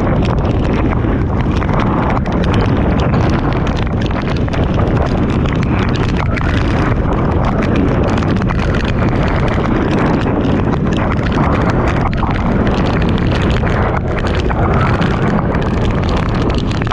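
Typhoon eyewall wind blowing hard with torrential rain and spray lashing, the gusts buffeting the microphone. Loud and continuous throughout.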